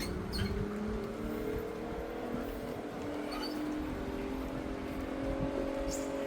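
A motor engine running steadily, its pitch drifting slowly up and down, over a low background rumble, with a few short sharp clicks.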